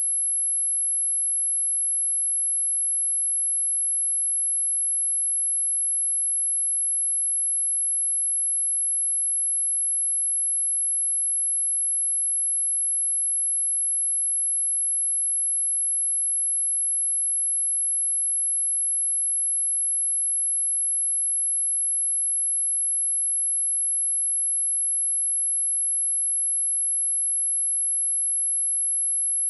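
Pure sine-wave test tone at 11051 Hz, one steady high-pitched whistle at constant level with no change in pitch.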